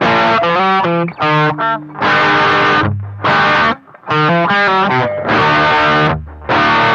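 Electric guitar played through an effects pedal, playing a riff of chords and single notes in short phrases with brief stops between them.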